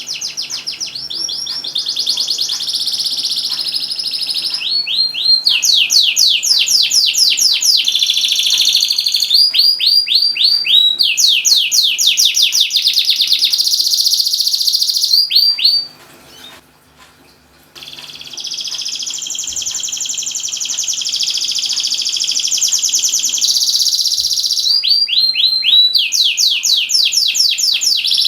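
Domestic canary in full song: long, fast runs of rapidly repeated chirps and trills. The song breaks off for under two seconds a little past halfway, then starts again.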